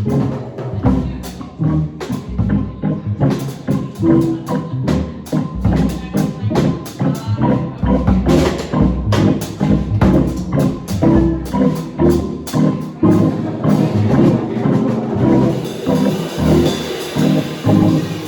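Band playing an instrumental passage of the song, drums keeping a steady beat under pitched instruments, with a brighter wash of sound coming in near the end.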